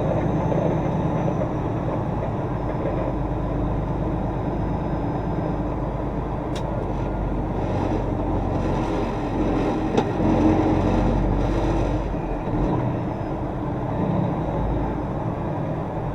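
Semi truck's diesel engine running steadily while the truck moves slowly into a parking spot, with a sharp click about ten seconds in.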